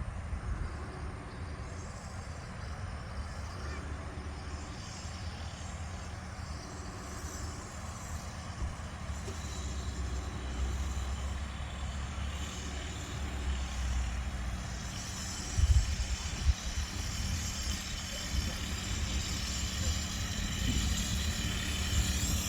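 Mini bike's small engine running as a child rides it around, getting gradually louder toward the end, with a single thump about sixteen seconds in.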